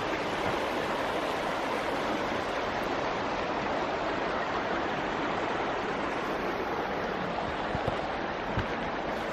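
Steady rushing of flowing water from a creek, with a few soft footfalls near the end.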